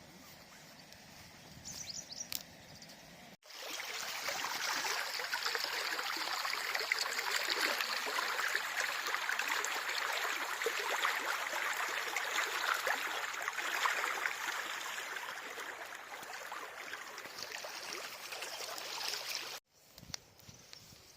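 River water flowing, a steady rushing babble that starts abruptly a few seconds in and cuts off shortly before the end. Before and after it there is only faint outdoor ambience with a few light knocks.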